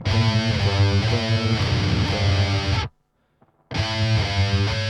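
Distorted electric guitar playing a fast riff of low notes, stopping about three seconds in and starting again after a short pause.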